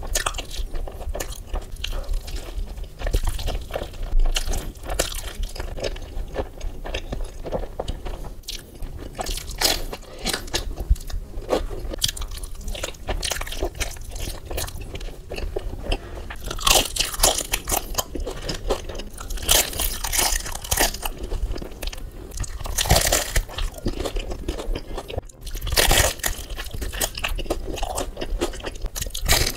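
Close-miked eating: biting into and chewing a cheese-filled tortilla-wrapped food, with a steady stream of wet mouth clicks and smacks. Several louder bites stand out about every three seconds in the second half.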